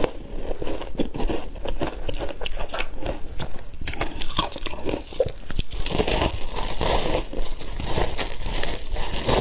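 Close-miked crunching of hard ice being bitten and chewed: a dense, unbroken run of crackly crunches.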